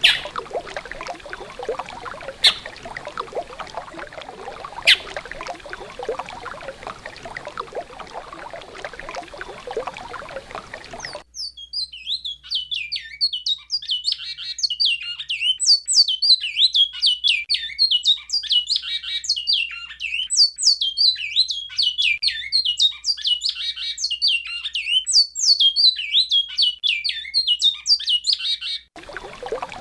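Running river water for about the first eleven seconds, with a few sharp clicks; then the water cuts off abruptly and a great-billed seed finch (bicudo) sings a long, fast run of high notes in the alta Mogiana song type, until the water sound comes back near the end.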